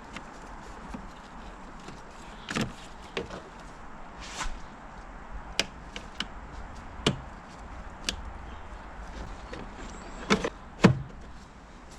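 Scattered clicks and knocks of hand work on a car's engine bay parts, the ECU and its plastic connectors being refitted. About nine short sharp knocks come at uneven intervals, the loudest a pair near the end.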